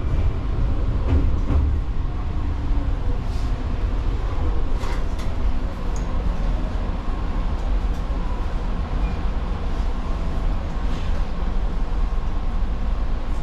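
Fujikyu 6000 series electric commuter train, a converted JR East 205 series EMU, running along the line: a steady low rumble with a few faint clicks.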